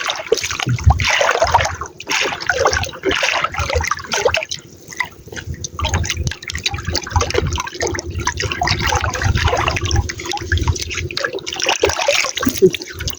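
Water splashing, trickling and dripping in uneven bursts.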